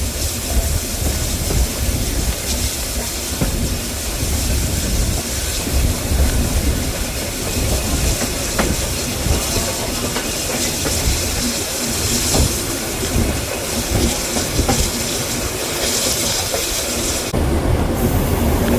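Heritage passenger train running on the rails, with a steady rumble, wheels clicking over rail joints and a constant hiss.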